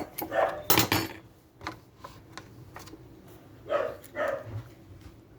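A dog barking a few times with short, separate barks, with small clicks in between.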